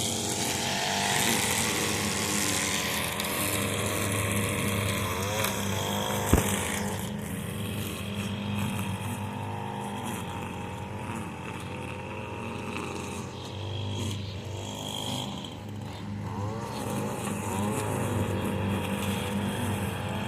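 Echo SRM 225 two-stroke string trimmer running at slow, low RPMs, with the engine of a Craftsman riding lawn mower running steadily alongside; the pitch rises and falls a few times. A single sharp knock about six seconds in.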